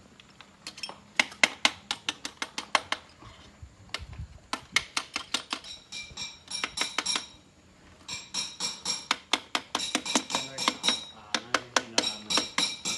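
Rapid metal-on-metal hammer taps on a steel part, about five strikes a second in runs with short pauses. In the later runs the struck metal rings.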